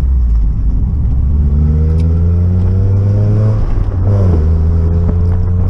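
Mazda Miata four-cylinder engine through a Roadster Sport 4 aftermarket exhaust, pulling under acceleration with its pitch climbing. It drops sharply at an upshift about three and a half seconds in, then pulls again in the next gear.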